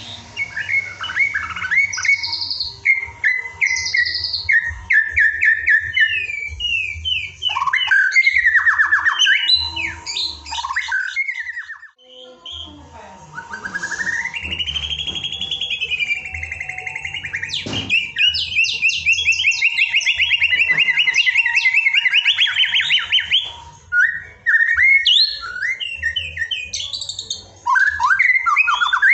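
White-rumped shama (murai batu) singing a long, varied song of clear whistles, rapid repeated notes and trills, including a long rising slurred whistle and a sustained fast trill midway, with brief breaks between phrases.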